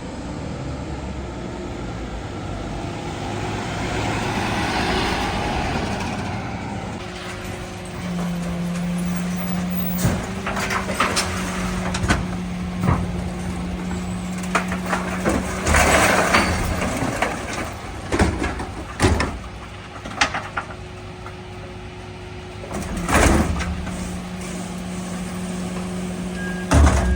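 Mercedes-Benz Econic refuse truck at work: the engine runs with a steady whine that comes in about a third of the way through, breaks off, and returns near the end. Repeated bangs and clatters of bins and rubbish are heard through the middle.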